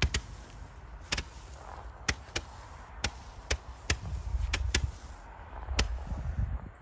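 Old fireworks popping: about ten sharp little cracks at uneven gaps of roughly half a second to a second, over low wind rumble on the microphone.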